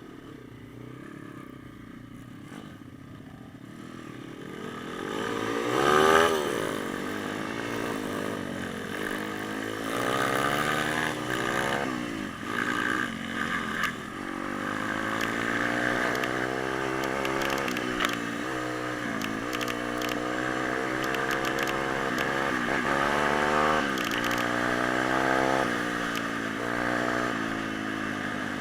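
Pit bike's small single-cylinder four-stroke engine under way: fairly quiet at first, it revs up about five seconds in and keeps running, its pitch rising and dropping again and again as the bike accelerates and changes gear.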